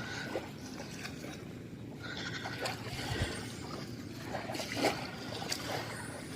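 Small waves lapping and washing on a sand beach, with scattered light clicks and knocks.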